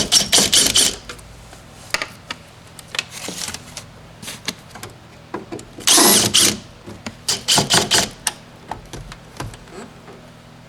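Tool work on a car: quick bursts of clicking and rattling, with a louder burst about six seconds in and another run of clicks just after.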